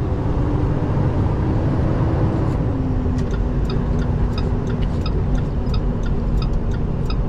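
Semi truck running, heard inside the cab as a steady low engine and road rumble. A steady low drone joins in about a third of the way through, and a train of light, regular ticks starts a little after.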